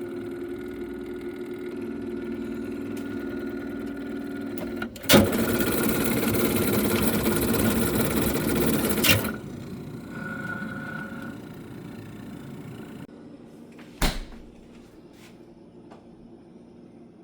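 Freezer running with a steady hum. About five seconds in, a sharp click sets off a loud, even rushing noise that stops with another click about four seconds later. The fainter hum that follows is broken by a sharp knock near the end.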